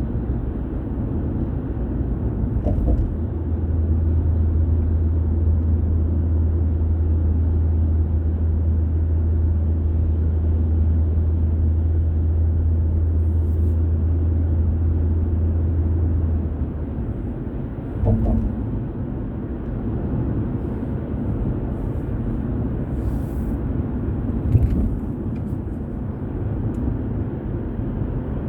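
Car driving on a road: steady low road and tyre noise, with a strong low drone from a few seconds in until about halfway through, then two short bumps.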